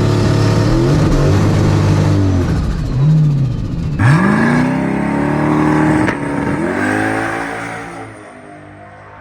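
Turbocharged LS V8 drag car running hard down the strip, its engine pitch dropping and climbing again several times, with abrupt cuts, then fading away near the end.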